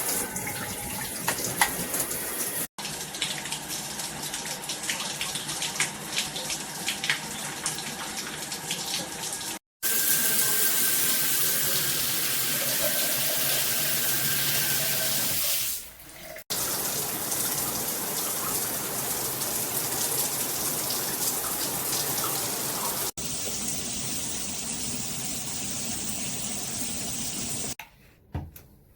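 Water spraying steadily from a NearMoon dual rain and handheld shower head, in several stretches broken off by abrupt cuts; the spray stops near the end.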